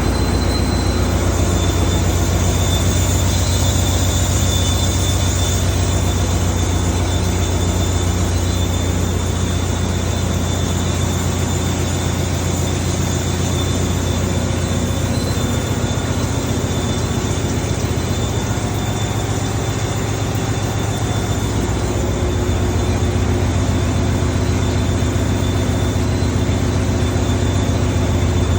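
MaK marine main diesel engine running steadily: a loud, constant low drone with a thin, steady high whine over it.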